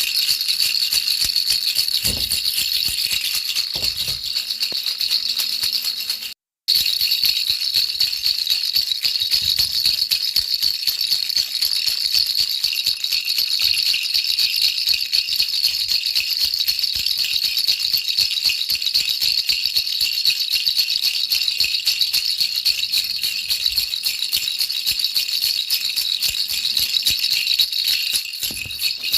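A baby rattle shaken continuously as white noise: a dense, fast, steady rattling of small beads. It cuts out for a moment about six seconds in.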